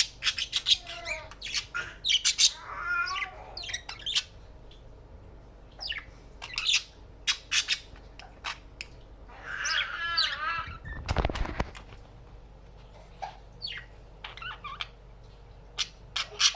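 Budgerigars chirping and warbling in quick, busy calls, with a brief rustle about eleven seconds in.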